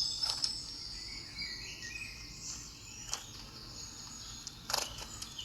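Birds chirping faintly in the background, broken by three short clicks, the loudest near the end.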